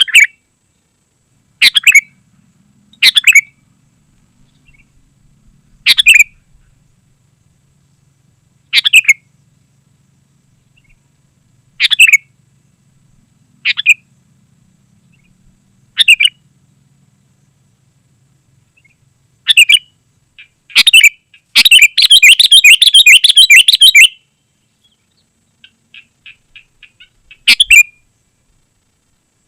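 Sooty-headed bulbul calling: short bright notes repeated every two or three seconds, then a burst of rapid chattering about two-thirds of the way in, followed by faint quick notes and another call near the end.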